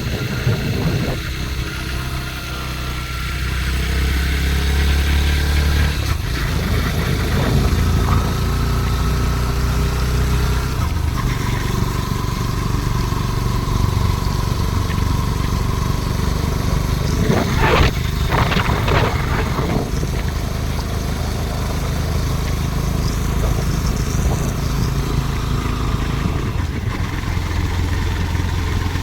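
A vehicle's engine running steadily on the move, with a short cluster of louder, sharper sounds about eighteen seconds in.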